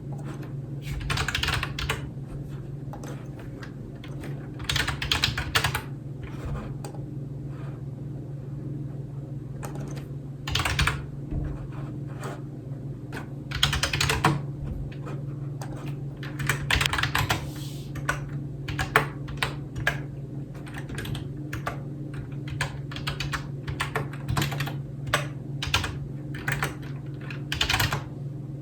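Computer keyboard being typed on in bursts of rapid key clicks, with pauses and scattered single keystrokes between, over a steady low hum.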